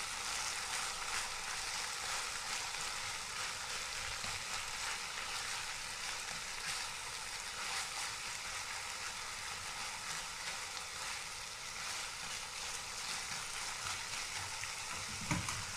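Spinach, crab stick and egg omelette sizzling steadily in an oiled frying pan as the eggs cook through, with a few light knocks and scrapes from stirring.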